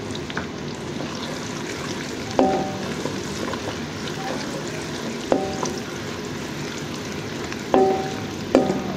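Onions and chopped garlic frying in hot ghee in a metal karahi, a steady sizzle. A wooden spoon stirs and scrapes through it, and a handful of times it knocks against the pan, which rings briefly.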